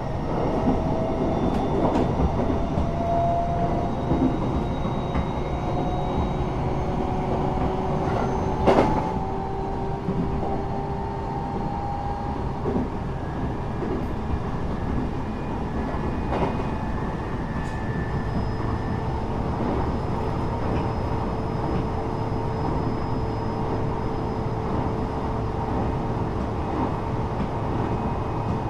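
Inside a Japanese electric passenger train running, with a steady rumble of wheels on rails. Over the first dozen seconds a motor whine rises slowly in pitch as the train picks up speed, and a few sharp clacks sound along the way.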